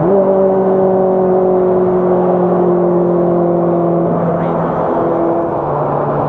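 Lotus Elise S2's 2ZZ-GE four-cylinder engine heard from inside the cabin. It jumps up in pitch at the start, holds a high, slowly sagging note, then drops to a lower pitch about five seconds in.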